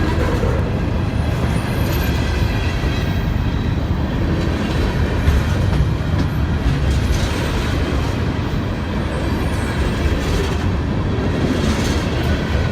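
A train running by, a loud steady rail noise with no break.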